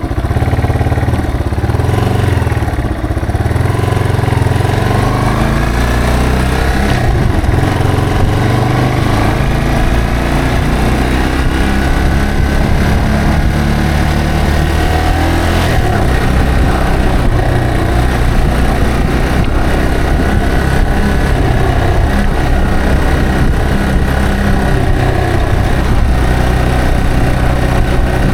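Yamaha TW225's single-cylinder four-stroke engine running under way, its pitch climbing as it accelerates a few seconds in and again about halfway through.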